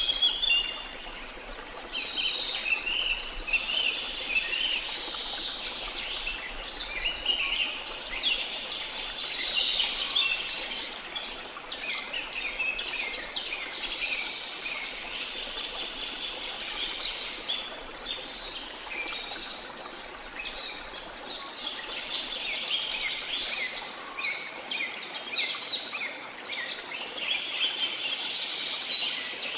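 Many birds singing and chirping at once, a dense overlapping chorus of short high calls and trills that never lets up, over a faint steady background hiss.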